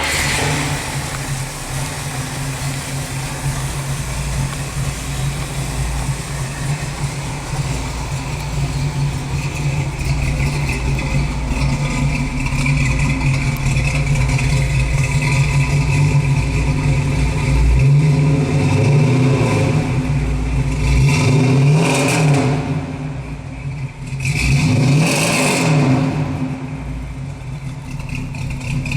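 1964 Buick Riviera's engine running steadily, with the revs rising and falling twice near the end.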